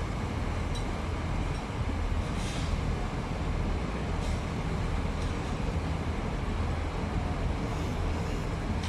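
MAN TGS 33.480 truck's straight-six diesel engine droning steadily while driving, with continuous road and tyre noise and a few faint swishes.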